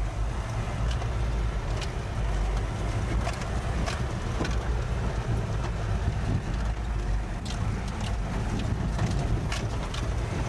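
A loud, steady low rumble with scattered sharp knocks and clicks through it, starting abruptly.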